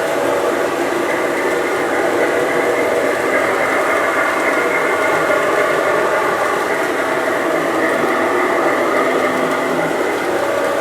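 LGB G-scale model train running on the layout: a steady whirring hum with no breaks.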